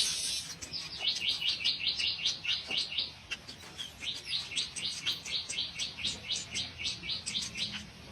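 Bird chirping in quick series of short, high chirps, about six a second, in two runs with a brief pause about three seconds in.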